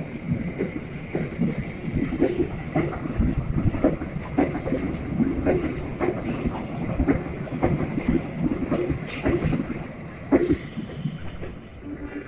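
Passenger train coaches rolling past on a curve: wheels clattering over the rails, with repeated short, high-pitched squeals from the wheel flanges. The sound begins to fade as the last coach passes, near the end.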